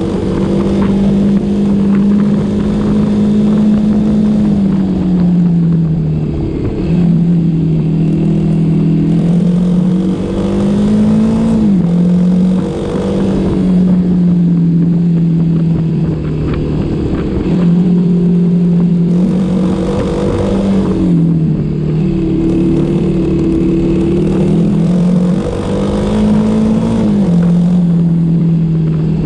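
Motorcycle engine running steadily under way, its pitch climbing slowly and then dropping quickly four times as the rider shifts or eases off.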